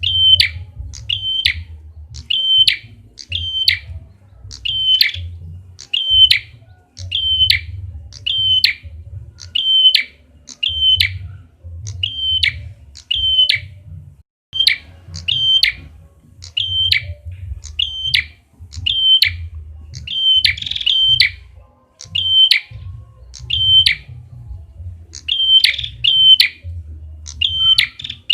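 Recorded song of the prenjak kepala merah (a prinia), played as a bird lure: a sharp, high, chirping call repeated about once a second, with a low hum underneath.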